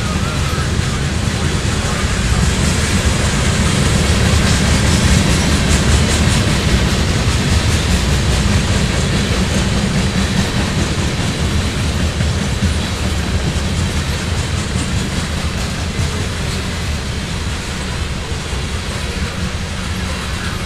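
Covered hopper cars of a freight train rolling past: a steady rumble of steel wheels on the rails with clickety-clack over the rail joints.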